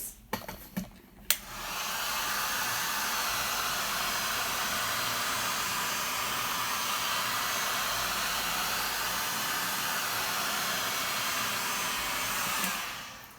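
Heat gun clicked on about a second in, then blowing with a steady rush for about eleven seconds and switched off near the end. It is run over wet acrylic pour paint to bring up cells.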